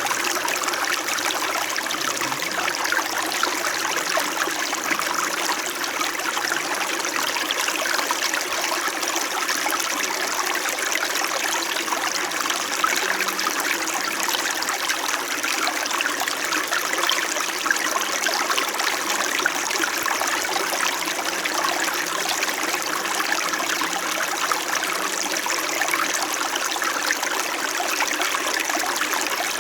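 Small stream flowing and trickling over stones in a steady, even babble, with fine splashing flickers throughout.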